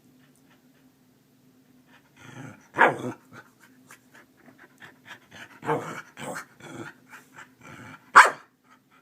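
Keeshond panting and whining in a run of short noises, with two loud sharp barks, about three seconds in and near the end: the dog demanding that its owner get up.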